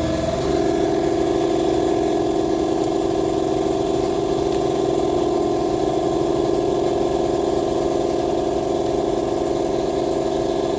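Air compressor motor running steadily with a constant hum, its pitch settling slightly about half a second in.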